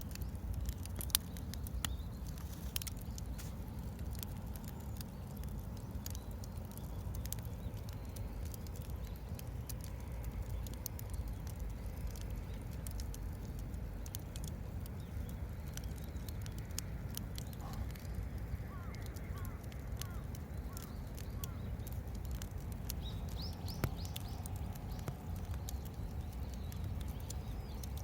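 Wood campfire crackling, with scattered sharp pops over a steady low rush. A few short bird chirps come in the second half.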